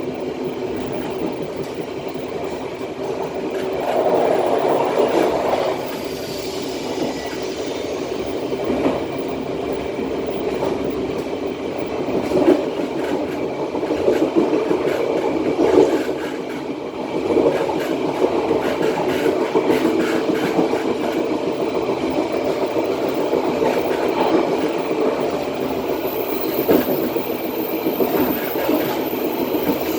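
Matarmaja passenger train running along the track: a steady rumble of steel wheels on rail, with irregular knocks as the wheels pass over the rail joints. A faint high-pitched whistle comes in near the end.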